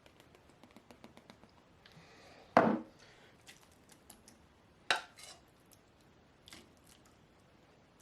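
Kitchen utensils and dishes clinking: a run of light clicks, then two sharp clatters about two seconds apart and a lighter knock, as food is dished up.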